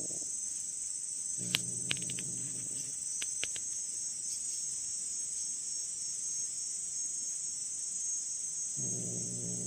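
Steady, high-pitched chirring of insects, typical of crickets. A low-pitched rumbling sound comes twice, each about a second and a half long, and a few sharp clicks sound in the first few seconds.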